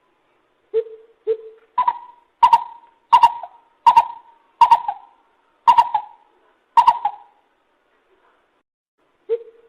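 Lesser coucal calling: two hollow lower notes, then a run of seven louder notes a step higher, about one every two thirds of a second, then another low note near the end.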